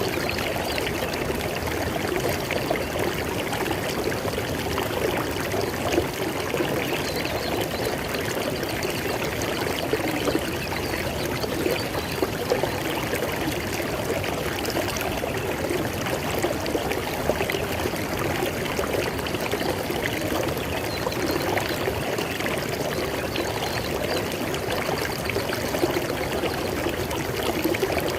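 River water flowing over rocks in a steady, unbroken rush with splashing and gurgling.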